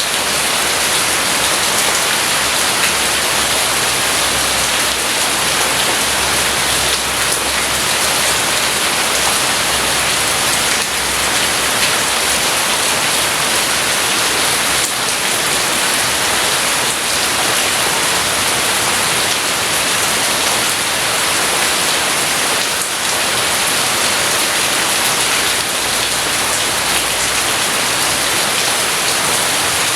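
Steady, heavy rain falling in a dense, even hiss with no let-up.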